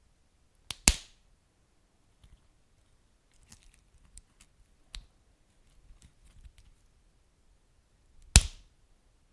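Wood fire crackling: sparse sharp pops, two loud ones about a second in and near the end and a smaller one midway, with faint ticks in between.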